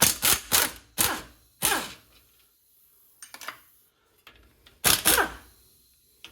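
Metal-on-metal clanks and clicks with short ringing as the carrier bearing cap bolts of a Chrysler 8.25 axle are worked loose with a 19 mm socket and wrench. There is a quick cluster of about five strikes at the start and three more about five seconds in.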